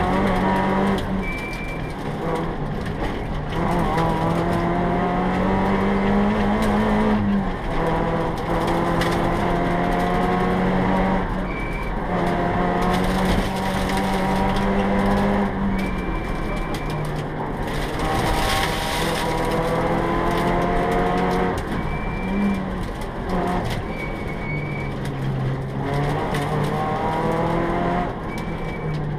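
Peugeot 309 GTI rally car's engine heard from inside the cabin, revving hard and climbing in pitch through the gears, with a short break at each gear change. A short high tone sounds several times.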